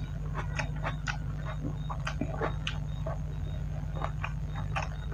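Close-up eating sounds of rice and curry eaten by hand: wet chewing clicks and lip smacks, a few each second, over a steady low hum.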